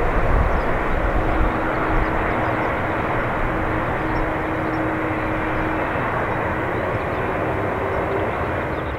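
Airbus A330-300's Rolls-Royce Trent 700 turbofan engines, a steady jet roar as the airliner lands.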